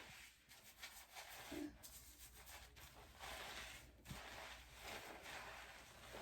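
Faint, uneven rubbing of hands working shampoo lather through wet hair.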